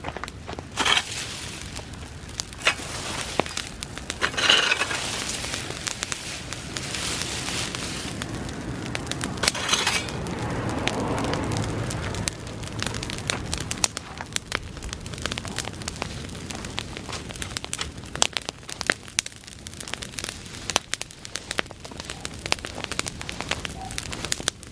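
Bonfire of dry summer grass burning, crackling with many sharp snaps and pops. Louder rushing stretches come in the first half, then it settles to steady crackling.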